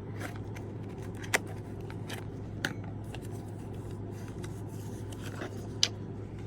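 Nail polish bottles and their packaging being handled, with light rustling and a few sharp clicks, over a steady low hum.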